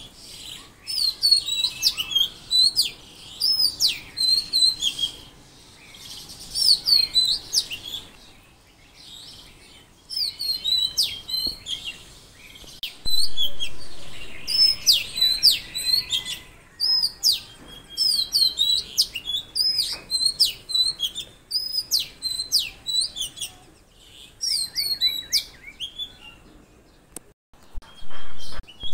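Songbirds chirping in quick runs of short, high notes, phrase after phrase, with a few brief lulls between bursts.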